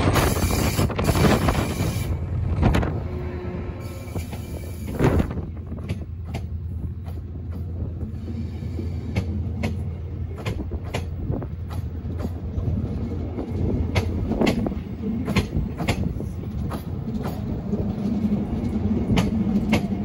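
A Class 68 diesel locomotive passes close by, loud at first. Its Mark 5A coaches then roll slowly past with a steady low hum and a regular run of sharp wheel clicks over the rail joints.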